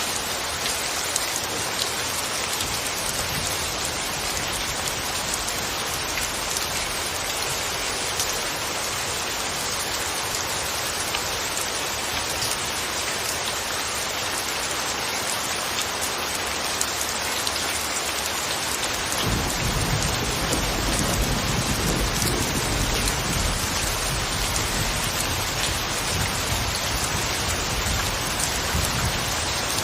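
Steady rain falling and pattering on surfaces. About two-thirds of the way in, a low rumble of thunder starts and carries on under the rain.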